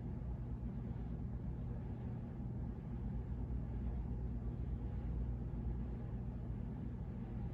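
Hunter Colonial II six-blade ceiling fan running steadily: an even low motor hum with the rush of moving air.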